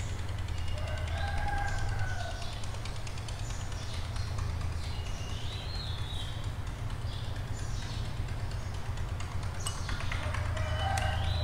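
Birds calling now and then in the background, a few short rising chirps spaced seconds apart, over a steady low hum.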